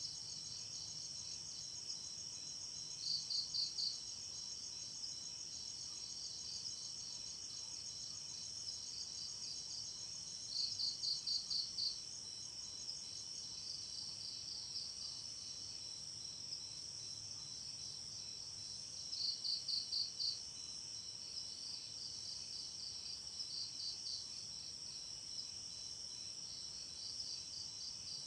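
A chorus of crickets at night, chirring steadily in a high, continuous trill. Three times, spaced about eight seconds apart, a louder run of about five quick chirps stands out for about a second.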